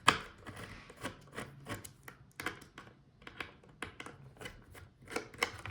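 Irregular small clicks and knocks of laptop display hinges and plastic back cover being handled and lifted out by hand. The hinges are already broken loose from the back cover.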